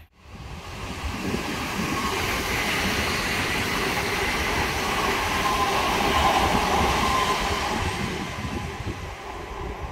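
Electric passenger train running through a station at speed: a steady rush of wheels on rail that builds after the start, is loudest about six seconds in, then fades away.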